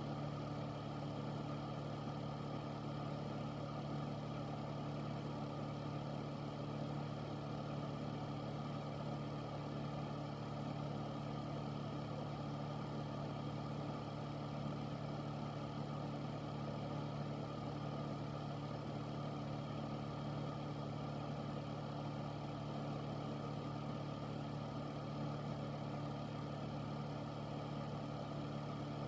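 Air filter (air purifier) running steadily: a constant low motor hum under an even whoosh of moving air.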